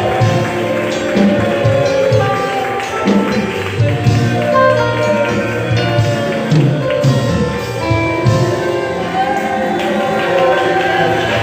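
Live band music with a regular drum beat, played as accompaniment to a youth choir's worship song.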